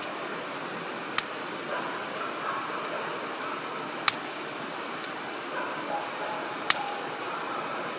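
Wood fire burning in a firewood grill: a steady hiss of flames with sharp crackles of burning wood, three clear pops (about a second in, around four seconds, the loudest, and near seven seconds) among a few fainter ticks.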